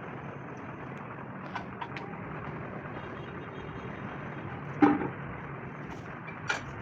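Steady workshop background rumble with a few sharp metal knocks. The loudest knock comes about five seconds in and rings briefly, like steel being struck.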